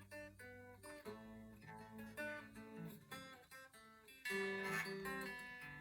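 Acoustic guitar being fingerpicked: single notes and chords ringing one after another, with a louder strummed chord about four seconds in.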